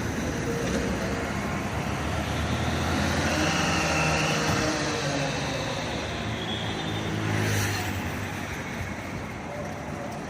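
Motor vehicles driving past, with engine and road noise that swells about four seconds in and again just before eight seconds.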